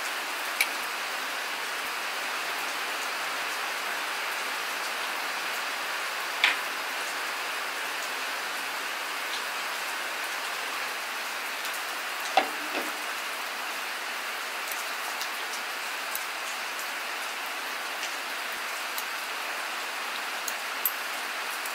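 Steady rain hissing, with a few sharp clinks of utensils on the cooking pot and dishes.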